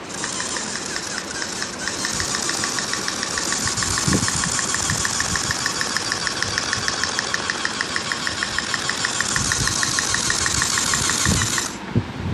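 A small engine running steadily, with an even ticking of about six beats a second over a loud hiss. It starts abruptly and cuts off abruptly near the end, with a few low thumps.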